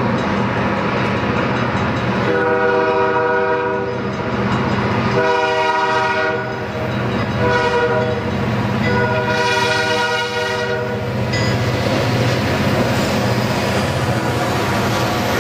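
Diesel freight locomotive's air horn sounding three blasts, the last the longest, over the steady rumble of the train passing.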